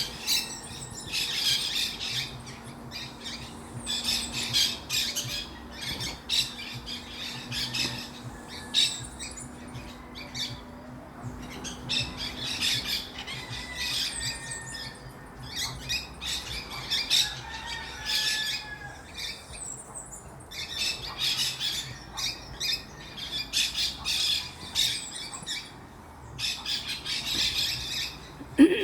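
A flock of small green birds calling together in a dense, shrill chatter of squawks and chirps that comes in bouts with brief lulls. A faint low hum runs through the first half, and a single knock sounds at the very end.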